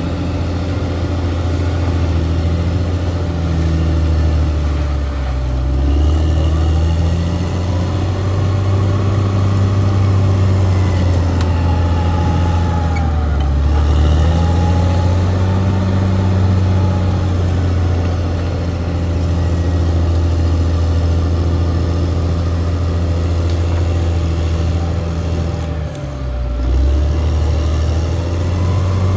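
Diesel engine of a Caterpillar D6R XL crawler bulldozer running steadily under work, its pitch sagging briefly three times as it takes load and recovering.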